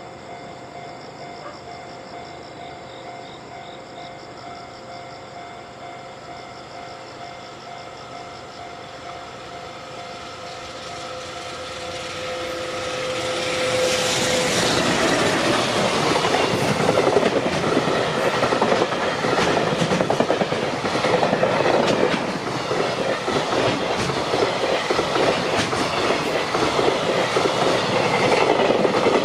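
A JR Freight EF210 electric locomotive hauling a container freight train approaches and passes close by. The sound builds from about ten seconds in and is loudest from about fourteen seconds in, as the locomotive goes by, then the container wagons roll past with a steady clickety-clack of wheels on the rails.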